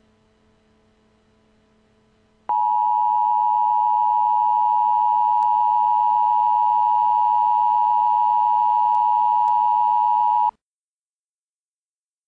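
Emergency Alert System attention signal: a loud, steady two-tone alarm (853 and 960 Hz together) starting about two and a half seconds in, holding for about eight seconds and cutting off suddenly. A faint hum comes before it.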